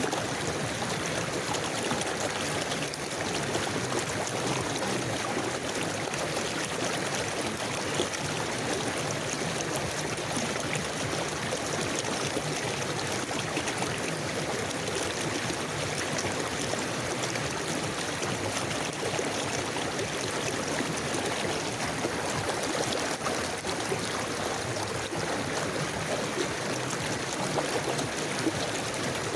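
River water flowing: a steady, even rush of moving water with no breaks or separate events.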